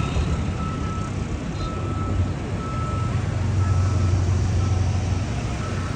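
An electronic warning beeper sounding a single high tone about once a second, over the steady low rumble of idling road vehicles that grows heavier in the middle.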